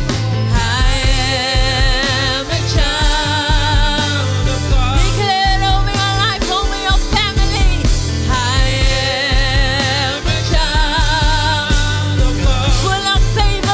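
Gospel worship song: a singer holds long notes with vibrato over a band with a steady bass line and beat.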